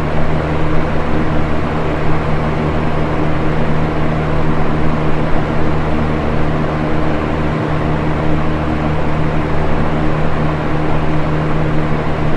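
Electric box fan running steadily: an even rush of air over a low motor hum.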